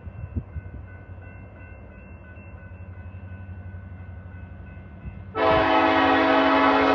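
Diesel locomotive rumbling low and steady, then its multi-note air horn sounds loudly about five seconds in and holds on.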